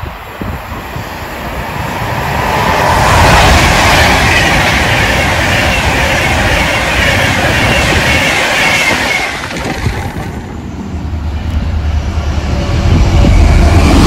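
A train passing through at speed: its noise builds over the first few seconds, stays loud, eases about ten seconds in, then a heavy low rumble rises again near the end.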